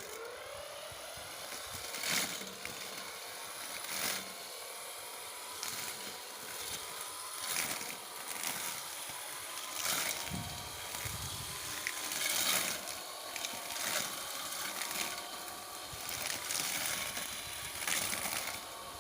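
Home-made solar-powered electric brush cutter running with a steady electric-motor hum, its cutter slashing through grass in short swishes every two or three seconds.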